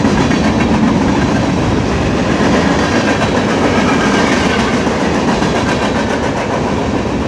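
Freight train cars rolling past close by: a steady loud rumble of steel wheels on the rails, with a fast clatter over the rail joints.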